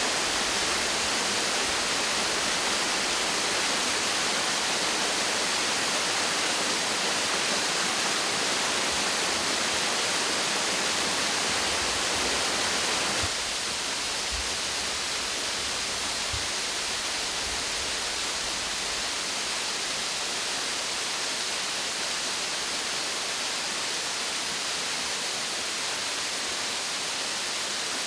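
Waterfall running, a steady wash of falling water with no pitch or rhythm; it drops suddenly to a slightly lower level about halfway through.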